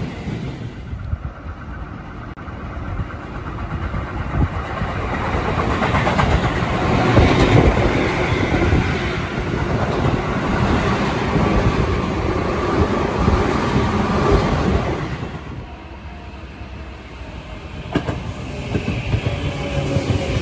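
Tobu Railway electric commuter trains running along a station platform: one pulls away at the start and fades, then about four seconds in another train's rumble and wheel clatter over the rail joints builds, holds loudly, and drops off sharply around fifteen seconds in. Near the end, another train's running sound with a faint rising whine.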